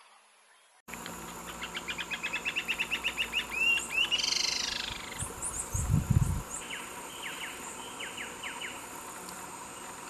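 Bird song starting about a second in: a fast run of repeated short rising notes, a louder warbled note, then a few sparse down-slurred notes, over a steady outdoor hiss. A short low thump comes about six seconds in.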